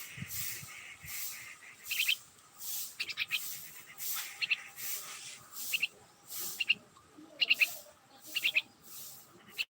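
Small birds chirping: quick clusters of high, rapid chirps, repeating about once a second.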